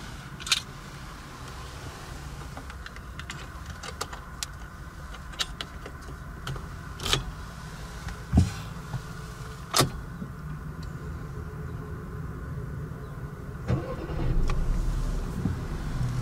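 Inside a Skoda Octavia's cabin: a steady low hum, with scattered sharp clicks and knocks from interior controls and trim being handled. A louder low rumble comes in about fourteen seconds in.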